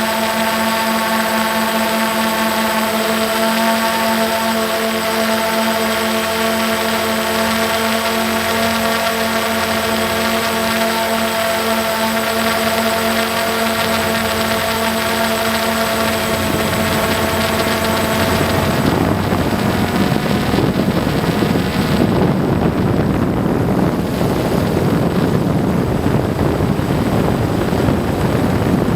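A motor running steadily with an even, many-toned hum. About two-thirds of the way through, the hum gives way to a rough rushing noise.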